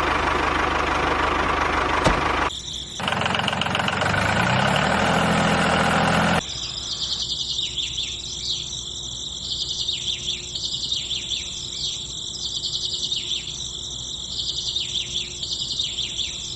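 Noisy mechanical running, like a small motor, whose pitch rises over a few seconds. It cuts off abruptly about six seconds in and gives way to birds chirping over and over against a faint steady hum.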